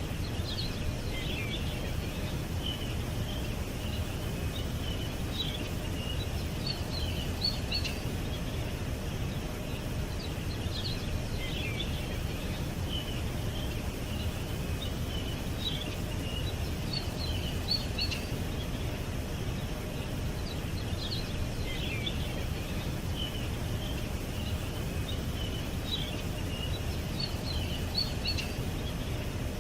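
Small birds chirping, in short runs of quick high chirps that come every few seconds, over a steady low background rumble.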